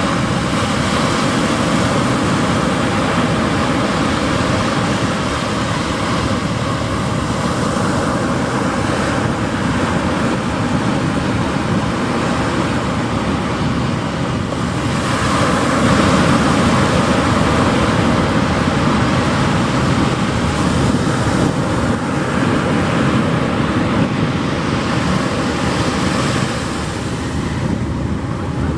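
Pacific Ocean surf washing onto a beach: a continuous rushing noise that swells as a larger wave breaks about halfway through, then eases again.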